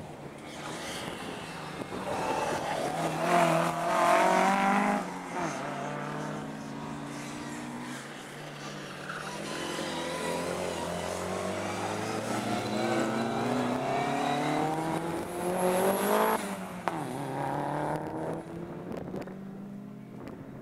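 Classic Mini rally car's engine revving hard as it drives a tyre-marked test. The engine note climbs and drops sharply several times, loudest about four seconds in and again around sixteen seconds, then fades away near the end.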